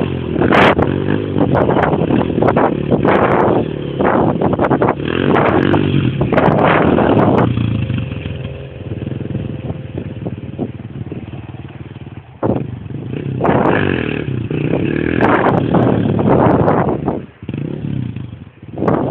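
Dirt bike engine revving in repeated bursts of throttle, then running lower and steadier for a few seconds before revving hard again.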